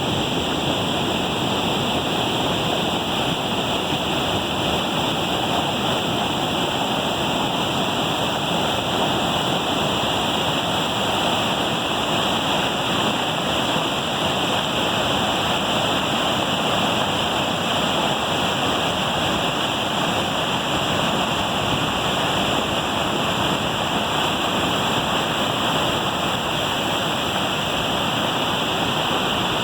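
Waterfall: falling water rushing in a steady, loud, unbroken roar.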